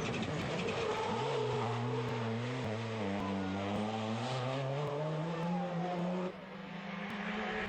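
Rally car engine accelerating hard on a stage, its pitch dipping and then climbing steadily. The sound drops abruptly in level about six seconds in, with the engine still heard more quietly.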